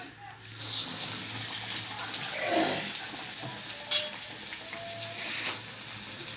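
Masala bara frying in hot oil, a steady sizzle. A few short whining tones sound over it, about two and a half seconds in and again around four and five seconds.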